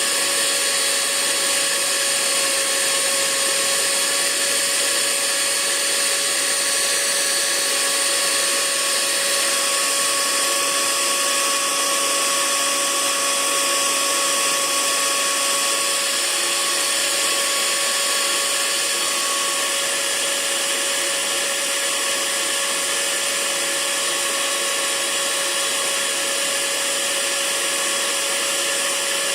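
Electric hair dryer running steadily, a continuous airy whir with a faint steady motor whine.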